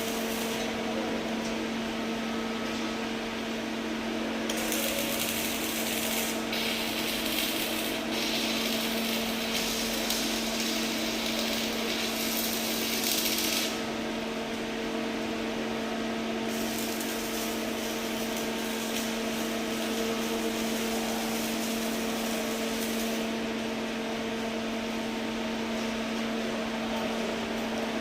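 Electric arc welding: a steady electrical hum from the welding machine, with a crackling hiss from the arc for about nine seconds in the middle, broken by short pauses.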